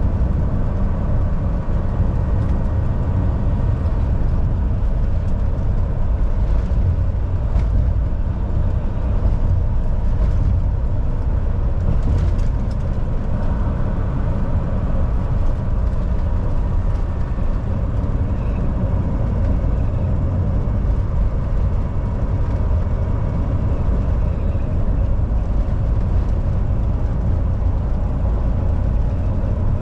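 Volvo VNL 760 semi truck cruising on the highway: a steady low engine drone mixed with tyre and road noise.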